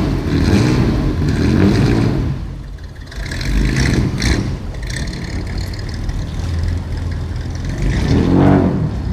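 1955 Mercedes-Benz Ponton 220a's straight-six engine revving as the car pulls away from a standstill in first gear, the note rising and falling with the throttle. The sound dips briefly about three seconds in and swells again, rising then falling in pitch, near the end.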